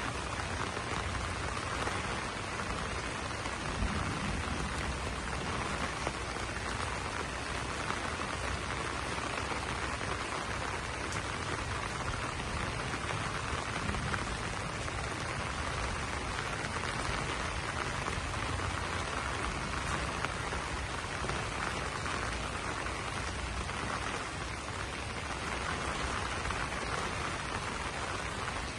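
Steady rain falling on broad banana leaves, an even, unbroken hiss of drops.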